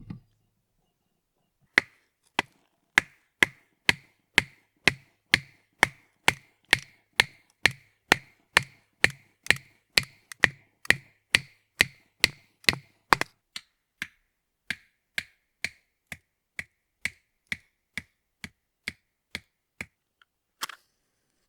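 Steady rhythmic chopping: sharp, clean strikes about two a second. They are heavier for the first dozen or so strokes, then lighter and more spaced until near the end.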